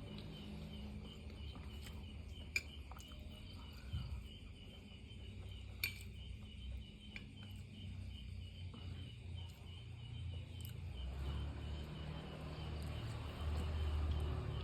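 Close-miked eating of spicy Korean instant noodles, with chewing and a few sharp clicks of cutlery against the bowl, the loudest about two and a half and six seconds in. Behind it, a steady high chirping repeats about three times a second.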